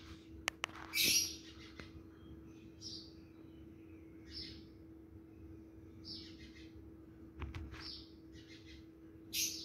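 A small bird chirping in short, high calls about once a second, with a few light clicks of a metal ladle against the pot and a steady low hum underneath.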